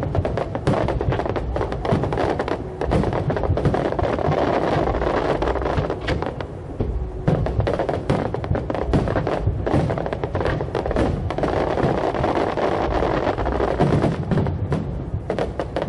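Fireworks going off in quick succession, bangs and crackles packed closely together, with music playing under them.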